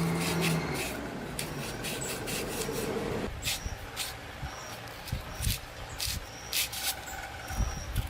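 Rubbing and scraping, a steady dense stretch for about three seconds, then a series of separate sharp scraping strokes.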